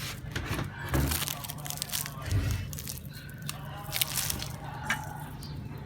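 Scattered sharp clicks and knocks with a couple of low thumps, over a steady low hum.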